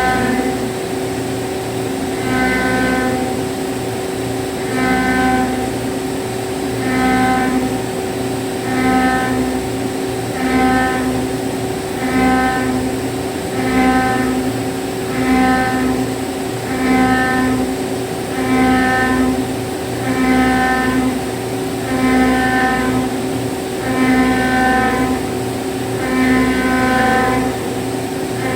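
A 25 mm milling cutter rough-milling aluminum alloy, with a steady machine hum. A ringing, pitched cutting tone swells and fades about every two seconds, over and over.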